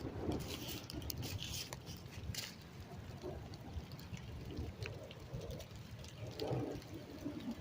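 Rain pattering and dripping, with scattered single drops ticking close by.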